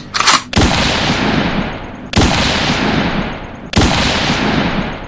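Gunfire sound effect: three shots about a second and a half apart, each a sharp crack with a long hissing tail that dies away.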